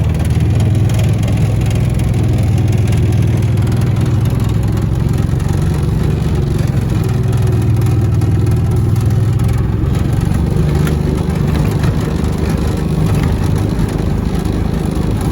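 An engine running steadily with a low hum, its pitch shifting slightly about ten seconds in.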